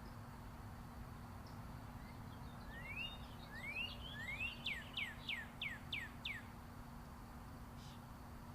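A songbird sings one phrase: three rising notes, then a quick run of about seven falling notes, about four a second. Underneath runs the steady rumble of distant interstate traffic.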